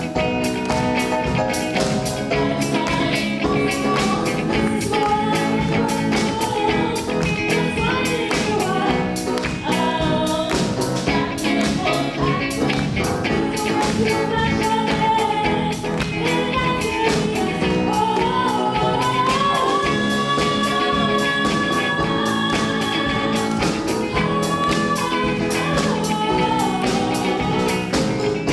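A song with a sung lead vocal over a band with a steady beat.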